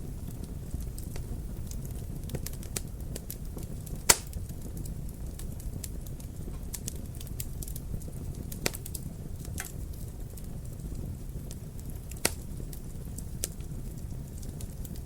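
Wood fire crackling: scattered small clicks and snaps over a steady low rumble, with a sharp pop about four seconds in and two smaller pops later on.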